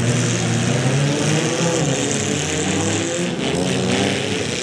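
Engines of several small compact demolition-derby cars revving and running, their pitch rising and falling.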